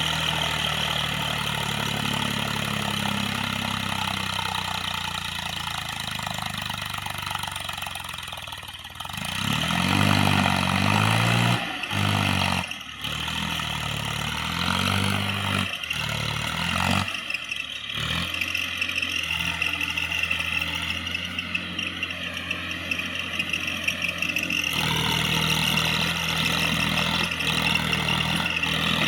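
Massey Ferguson 7250 DI tractor's diesel engine running, dropping back and then revving up hard about nine seconds in, with a few short breaks, then running steadily again.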